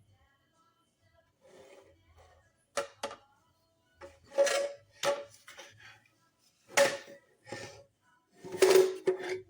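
Several short clatters and scrapes of hard kitchen items being handled, in separate bursts a second or two apart.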